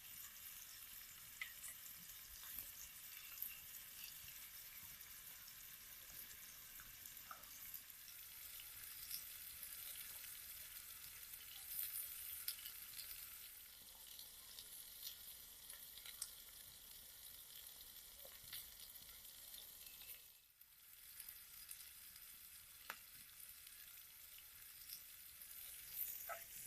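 Food frying in a cast iron pan over an open fire: a faint, steady sizzle with scattered sharp ticks of stirring. The sizzle briefly drops out about twenty seconds in, then resumes.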